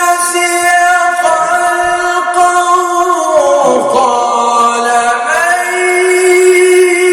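A male Quran reciter's voice holding a long, drawn-out ornamented note in tajweed chanting. The pitch slides down about halfway through and climbs back up soon after.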